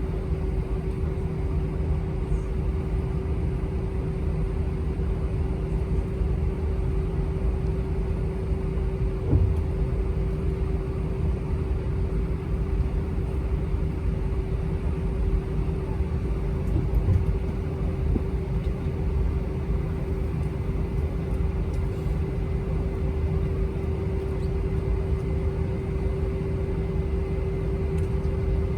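Airbus A319 cabin with the jet engines at idle while the plane is on the ground: a steady low rumble with a constant hum, holding level and not rising.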